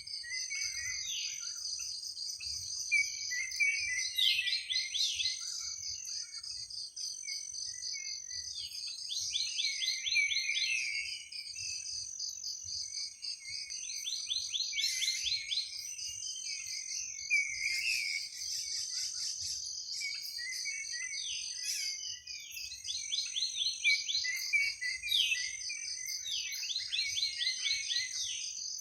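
Night forest ambience: a steady high insect chorus of crickets, with a higher insect pulsing on and off, and a bird repeating a short phrase of quick, falling trilled notes about every five seconds.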